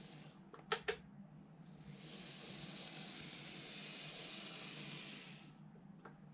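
Faint background hiss with two sharp clicks close together about a second in, then a soft rustling hiss for a few seconds.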